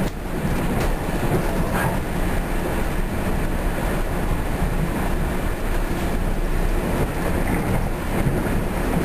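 Running noise of a Bombardier BiLevel passenger coach in motion, heard from inside the car: a steady rumble of wheels on rail, with a few sharp clicks in the first two seconds.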